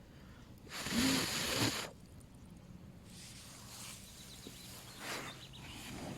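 A person blowing out air in repeated long breaths, each about a second; the strongest comes about a second in, with fainter ones later.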